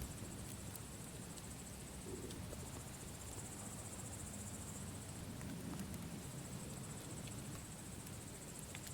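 Campfire burning with scattered small crackles and pops over a low rumble of the flames, while a chorus of insects chirps high and steadily above it, swelling and fading a few times.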